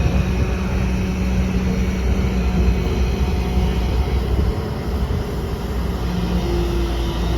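Heavy diesel machinery at a truck-loading site, engine running steadily with a low rumble and a hum that wavers in and out.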